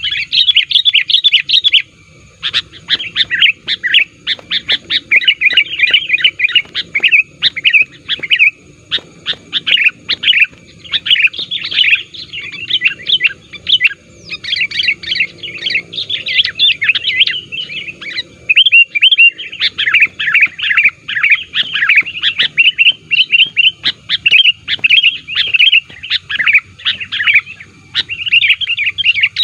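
Sooty-headed bulbul (kutilang) giving a fast, loud, almost nonstop chattering song. It is the agitated, rival-challenging calling used as a lure to draw wild bulbuls in, with brief pauses about two seconds in and again near the middle.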